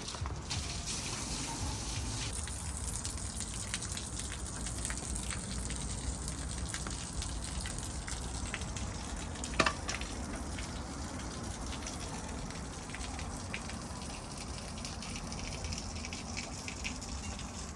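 Water spraying steadily as the backhoe is washed down, with one sharp knock nearly ten seconds in.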